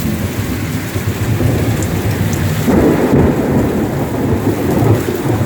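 Thunderstorm: heavy rain pouring down with strong wind gusts and a low rumble throughout, swelling louder a little under three seconds in.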